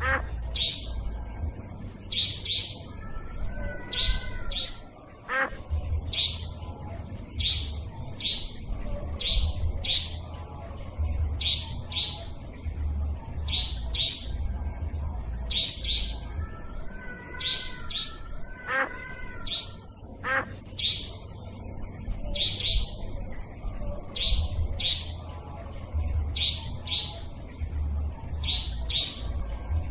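Nightjar (cabak) lure call recording: sharp, high-pitched notes in quick pairs or threes, repeating every couple of seconds over a faint low hum. Fainter warbling from other birds runs underneath.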